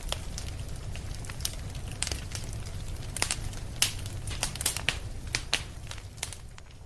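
Wood fire crackling, with irregular sharp pops and snaps over a steady low rumble of the flames; the pops come thickest in the middle.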